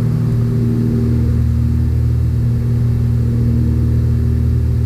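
Cessna 182F's six-cylinder Continental O-470 engine and constant-speed propeller droning steadily at climb power, set to about 23 inches of manifold pressure and 2,400 rpm.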